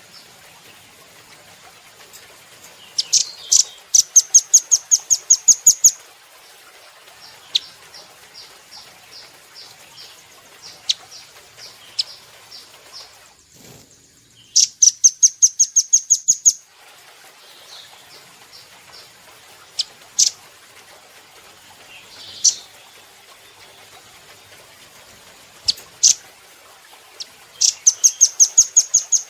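Velvet-fronted nuthatch calling: three loud runs of sharp, high chips, about five a second for two to three seconds each, with softer chip series and single sharp notes in between.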